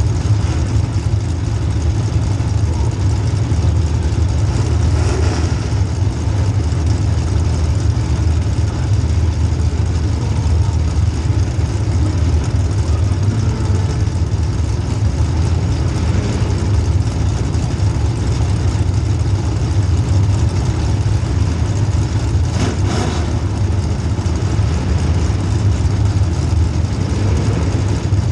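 Demolition derby car's small-block Chevy V8 running with a steady low rumble. Brief louder noises come about 5 and 23 seconds in.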